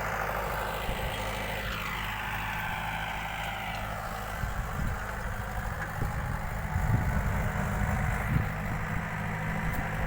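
Mahindra tractor's diesel engine running steadily, growing louder and rougher after about four seconds.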